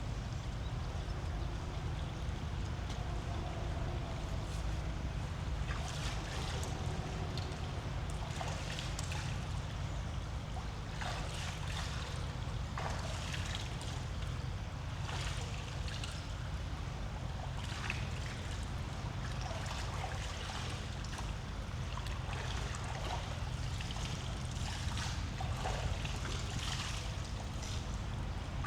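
Steady low rumble of a bicycle rolling along a forest trail, over the rush of flowing creek water, with many short irregular crackles and clicks.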